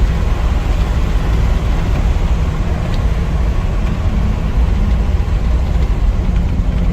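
Driving noise of a 1955 GMC pickup with a 350 V8 crate engine, cruising at a steady pace: a continuous low rumble of engine and road noise.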